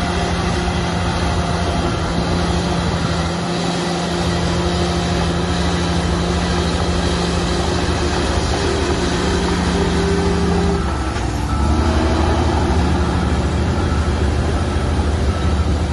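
Diesel engines of heavy earthmoving machinery (bulldozer and dump trucks) running steadily under work. The engine note changes about eleven seconds in, then runs a little louder.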